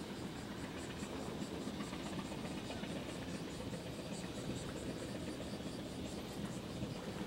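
Steady low rumble of the ferry Hamayu's engines as it manoeuvres into port. A faint, high, evenly pulsing chirr sits above it.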